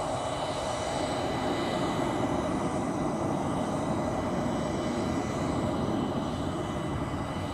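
Twin General Electric CF34 turbofan engines of an Embraer E190 airliner running on departure: a steady jet noise with several thin, high whining tones over it.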